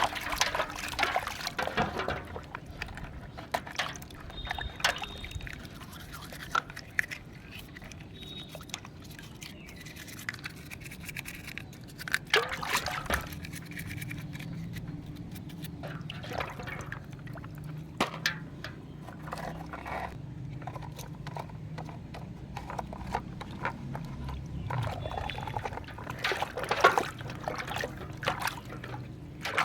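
Water trickling, dripping and splashing as muddy toy vehicles are washed, with scattered light clicks and knocks of the toys being handled.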